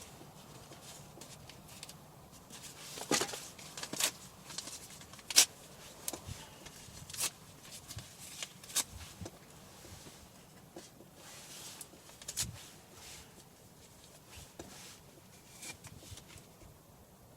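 Dry firewood burning in a campfire, crackling with irregular sharp pops over a low hiss; the sharpest pop comes about five seconds in.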